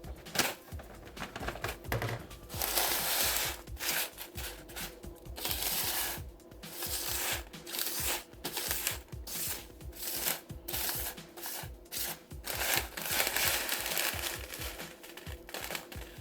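Plastic bag crinkling and dried jalapeno rings rustling as they are handled and bagged, in irregular bursts over background music.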